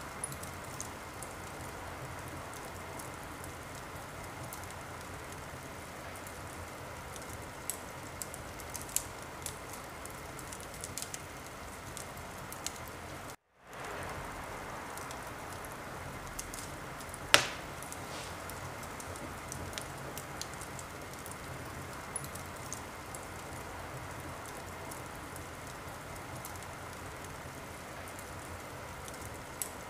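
Wood fire crackling in a fireplace: a steady hiss with scattered small pops and one loud sharp pop a little past halfway. The sound cuts out for a moment a little before halfway, then fades back in.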